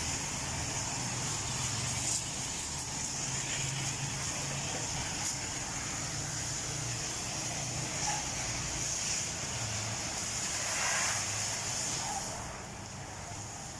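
Pressure washer running, a steady motor hum under a hissing water spray, which eases off near the end.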